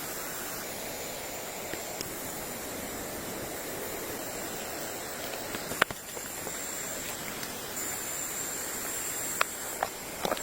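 Steady outdoor ambient rushing noise with a thin high whine, and a single sharp click about six seconds in.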